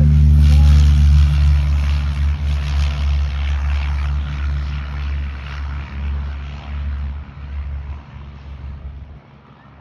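Airplane engine noise: a steady low drone with a broad rushing hiss, loud at first and fading steadily, dropping away near the end.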